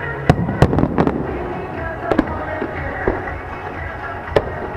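Aerial firework shells bursting in a string of sharp bangs, some in quick pairs, over music.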